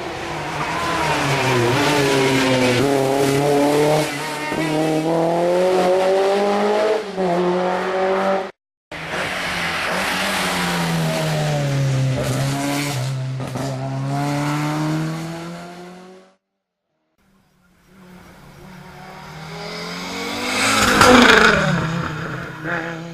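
Historic rally cars driven hard, engines revving up and dropping back through gear changes in several short clips with abrupt cuts between them. Near the end a car passes close by, the loudest moment, its engine note rising then falling.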